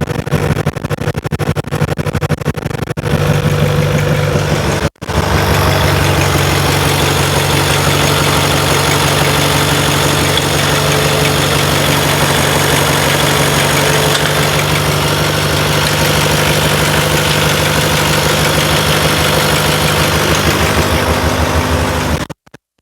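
1929 Riley 9's four-cylinder engine running steadily at idle just after its rebuild. The sound breaks off briefly about five seconds in and again near the end.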